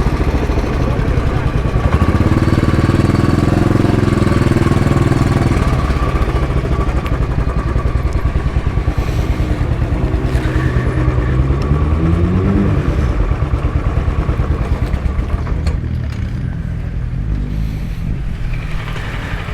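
Single-cylinder engine of a 1952 Royal Enfield Bullet 500 motorcycle running while ridden, the engine note shifting with the throttle and rising about twelve seconds in, then settling a little quieter near the end.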